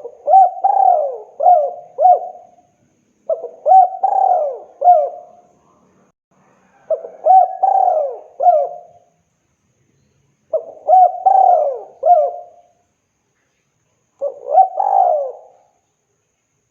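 Spotted dove (tekukur) cooing, calling for a female. It gives five evenly spaced phrases of three or four coos each, about three and a half seconds apart.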